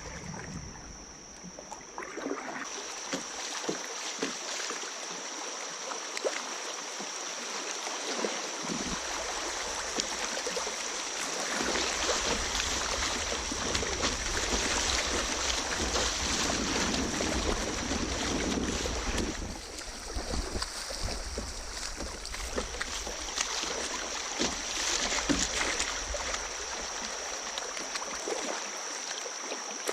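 Kayak paddle strokes splashing and creek water rushing around the boat, the water louder in the middle stretch, as through a small riffle. Wind rumbles on the microphone from about a third of the way in.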